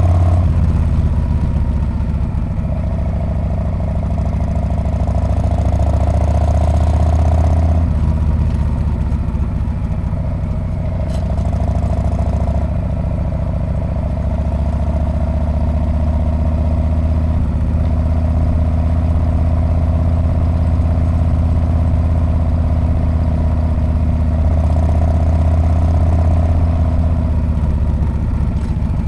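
Harley-Davidson Street Bob's V-twin engine and exhaust running under way, heard from the rider's seat. The engine note steps and shifts several times as the throttle is rolled on and off.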